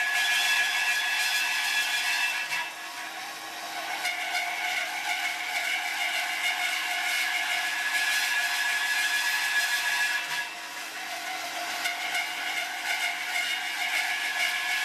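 Automatic profile drilling and cutting machine running, with a steady high-pitched whine over hiss and scraping clatter. The whine drops off twice, a few seconds in and about two-thirds of the way through, and each time comes back up.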